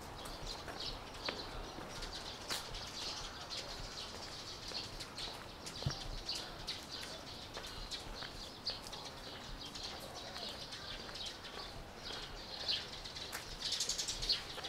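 Many small birds chirping and twittering in a continuous, overlapping chatter of short high calls. The calls grow thickest and loudest near the end.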